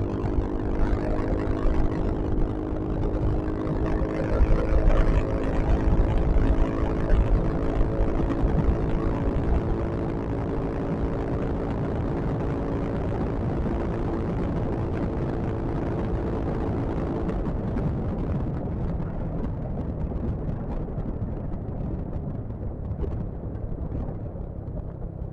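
Yamaha XMAX scooter's engine humming at a steady cruise, with low wind rumble on the microphone. The engine's hum fades about two-thirds of the way through, leaving mainly the rumble.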